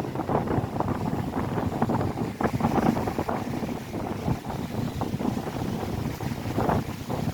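Strong wind buffeting the microphone in irregular gusts, over the wash of waves breaking on a lakeshore.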